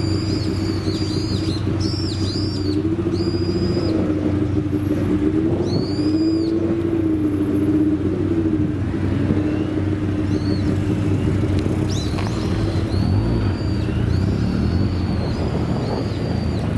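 Classic car engine idling: a steady low hum that wavers gently in pitch, with no sharp revving.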